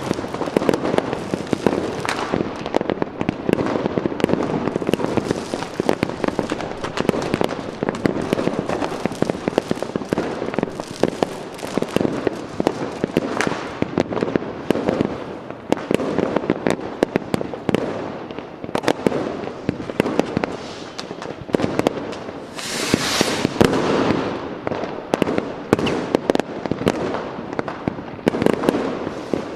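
Fireworks going off continuously, a dense stream of crackling bangs, with a rising hiss about 22 seconds in.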